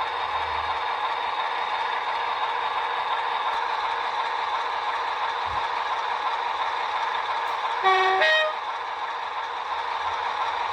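Sound decoder of an OO gauge Class 47 model diesel locomotive playing its Sulzer engine sound steadily through the model's small speaker, with a short two-tone horn blast, low note then high note, about eight seconds in.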